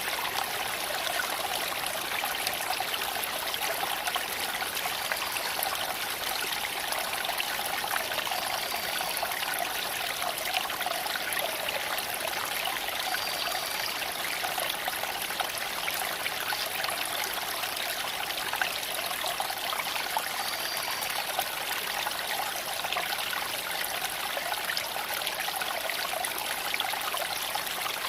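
Creek water flowing steadily over stones, a continuous even rushing and trickling. A few brief high-pitched tones sound faintly over it.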